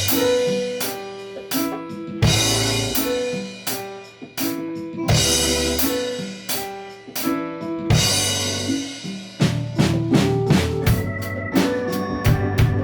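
Live jazz-pop ensemble music: a drum kit with strong accented hits about every three seconds over a bass line and keyboard or organ chords.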